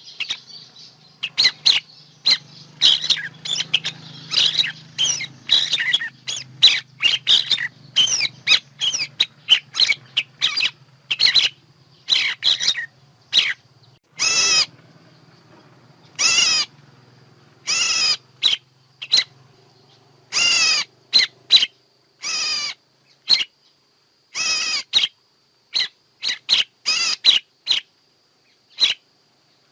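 Recorded songbird calls of the kind played as a bird-trapping lure. A rapid run of sharp chirps gives way, about halfway through, to separate short warbled calls roughly a second apart. A faint low hum sits underneath until about two-thirds of the way in.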